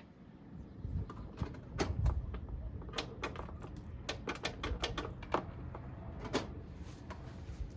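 Irregular sharp clicks and light knocks, a dozen or so at uneven spacing, over a low rumble, with no engine cranking: the mower's starter is not attached.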